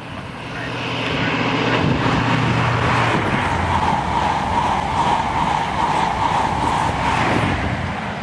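InterCity 225 express train (Class 91 electric locomotive with Mark 4 coaches) passing through at speed. The noise builds over the first two seconds as it nears, then holds as a loud steady rush of wheels on rail while the coaches go by.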